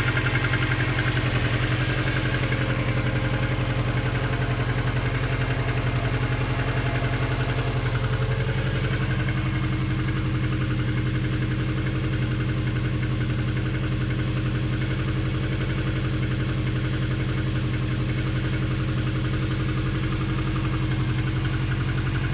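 Subaru Impreza GT's flat-four engine idling steadily with a fast, even knock that the owner takes for piston slap.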